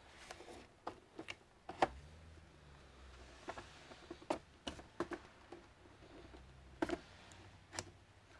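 Scattered light clicks and taps of hands and tools handling the parts of an all-in-one desktop computer during disassembly, about a dozen in all at an irregular pace. The sharpest clicks come about two seconds in and again near seven seconds.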